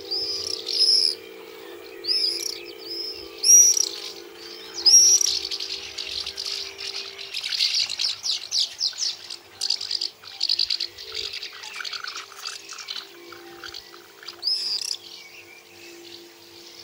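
Songbirds singing: loud, clear phrases of arching high notes repeated every second or so, with a fast trill in the middle and some lower notes after it. A steady low hum runs underneath.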